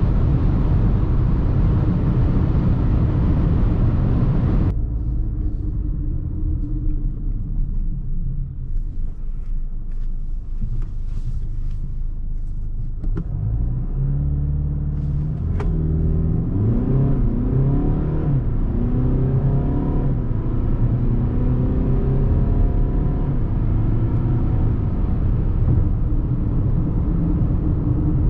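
Car at speed with loud, even road and wind noise that drops off suddenly about five seconds in. After a quieter stretch with a few clicks, the Mercedes GLA 220d's four-cylinder diesel pulls away, its pitch rising and stepping back several times as it changes up through the gears, then running on steadily.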